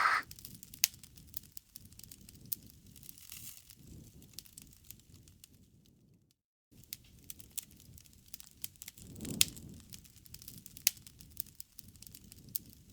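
Crackling bonfire: wood snapping in scattered sharp pops over a low rustle of flames. The sound cuts out for about half a second a little before halfway, then resumes.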